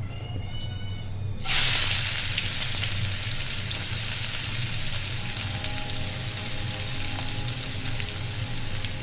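Food dropped into hot oil in a pan, starting with a sudden loud sizzle about a second and a half in, then frying steadily.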